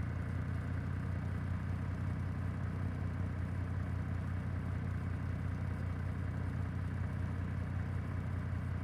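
Kawasaki W800's air-cooled parallel-twin engine idling steadily.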